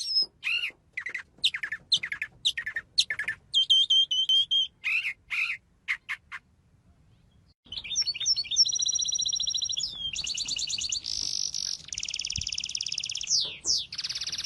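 Songbird singing: quick high chirps and whistled notes, a pause of about a second, then long fast trills and buzzy rattling phrases.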